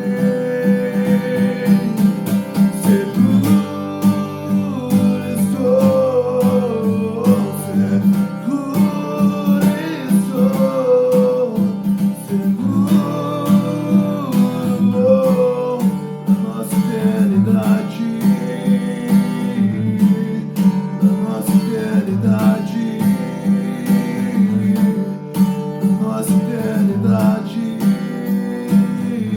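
Acoustic guitar music: a steady strummed rhythm with a sustained melody line over it.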